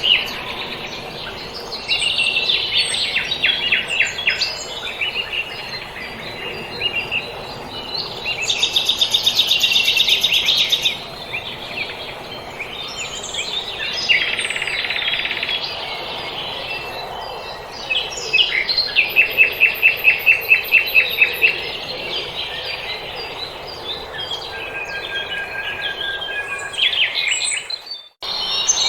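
Small songbirds singing: a run of chirping phrases, including a long rapid trill and later a series of quick repeated notes, over a faint steady background. The sound briefly drops out near the end.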